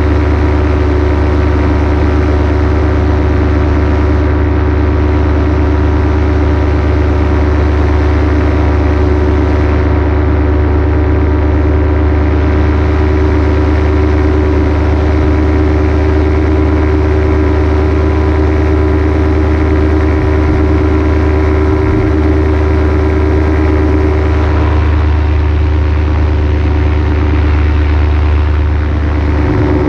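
Paramotor engine and propeller running at a steady cruise throttle: a loud, even drone with a strong low hum and a constant pitch.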